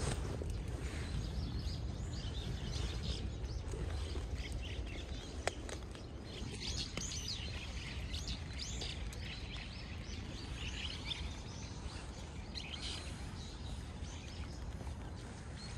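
Small birds chirping repeatedly over a steady low outdoor rumble, with a single sharp click about a third of the way in.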